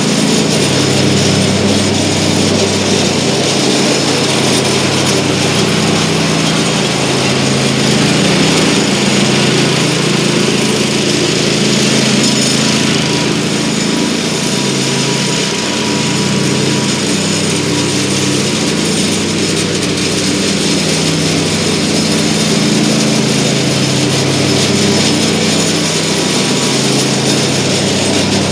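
Lawn mower engine running steadily while mowing, its pitch sagging and recovering slightly as the load changes.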